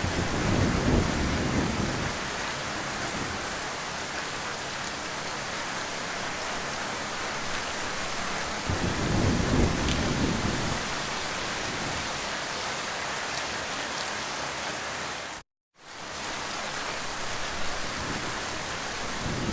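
Heavy rain falling steadily, with two swells of low rumble, one near the start and one about nine seconds in. The sound cuts out completely for about half a second roughly three-quarters of the way through.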